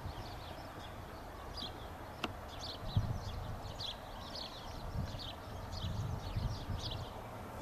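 Birds chirping in quick short calls, with low wind rumble on the microphone.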